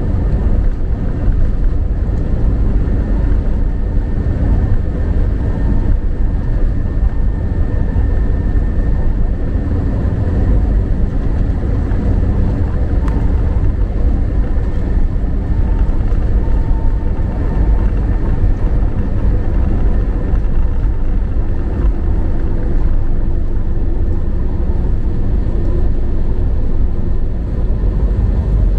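Jet airliner cabin noise during takeoff: a steady low rumble of engines and airflow heard from inside the cabin, with faint steady tones above it.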